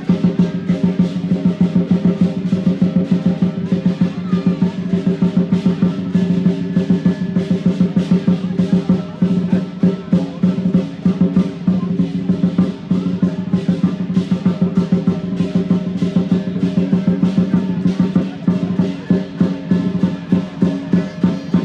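Lion dance drum and cymbals playing a fast, steady beat of about three to four strokes a second, with no break.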